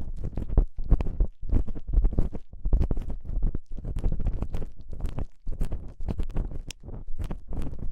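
Ear-cleaning ASMR sounds on a microphone's ear: rapid, irregular scratching and rubbing strokes, several a second, with a deep, rumbly low end.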